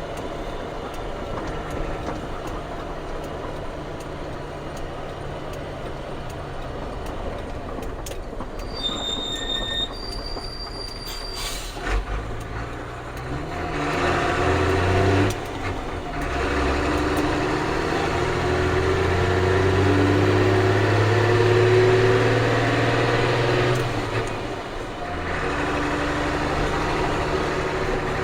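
Ford CF7000's 6.6-litre diesel engine running under way, heard from inside the cab. It runs steadily at first, then about halfway through it pulls louder with rising pitch, dips briefly, climbs again for several seconds and eases back near the end.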